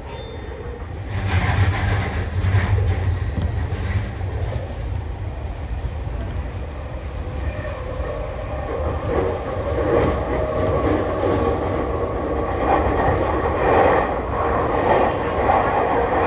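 Tokyu 3020 series electric train running on the line, heard from inside the front car: a steady low rumble of wheels on rails with clickety-clack over the joints. The running noise grows louder about halfway through.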